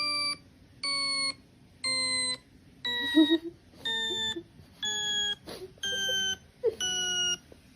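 A sequence of electronic beep tones, about one a second, each a little lower in pitch than the one before.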